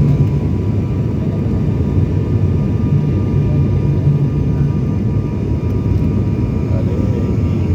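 Steady low roar inside an airliner's cabin on its landing approach, engine and airflow noise together, with a faint high steady whine above it.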